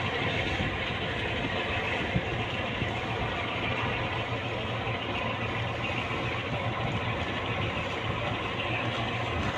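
A tugboat's diesel engine running steadily, a constant low hum with a wide noisy rumble over it.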